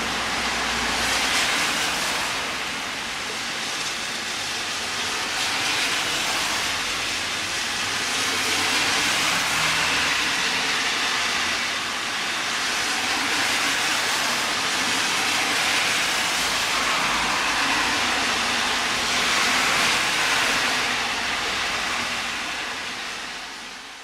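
Heavy typhoon rain, a steady loud hiss that swells and eases every few seconds as tyres hiss past on the wet road.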